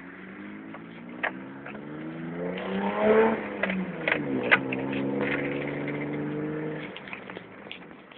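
BMW E30 320i's straight-six engine revved through a home-made stainless steel exhaust: the pitch rises to a peak about three seconds in, falls back, then holds at a raised speed for a couple of seconds before dropping to idle near the end. A few sharp cracks sound along the way.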